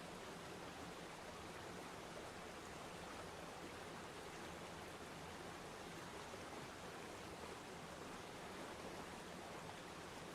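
Waterfall: falling water rushing steadily and evenly, with no breaks or changes.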